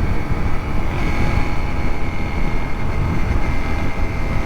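Motorcycle on the move: loud, steady wind rush on the camera microphone, heaviest in the low end, with the engine running underneath.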